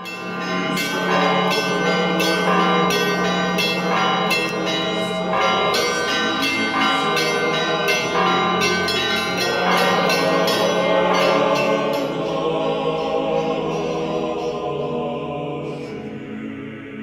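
Church bells ringing a peal: many quick, overlapping strikes ring on over a lingering hum. The strikes thin out and fade over the last few seconds.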